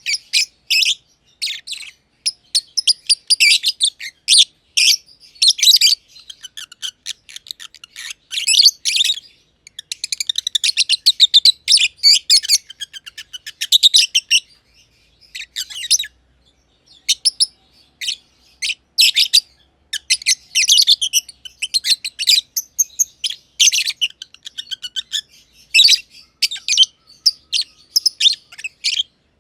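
Masked lovebirds (green and green pied personata) chirping in rapid, shrill runs of high-pitched calls, with one short pause about halfway through.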